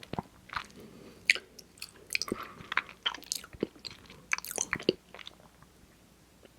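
Close-miked chewing of mochi ice cream: a dense run of mouth sounds, smacks and clicks, that stops about five seconds in.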